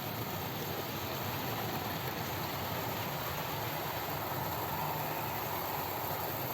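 OO gauge model trains running on the layout: a steady rumble and hum of small motors and wheels on the rails.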